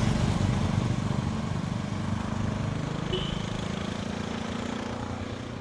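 Motorcycle engine running as the bike rides away, its sound fading steadily.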